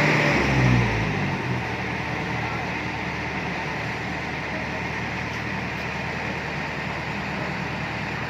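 Motor vehicle engine running steadily with an even hiss. A stronger, wavering low engine note dies away about a second in, leaving a steady low hum.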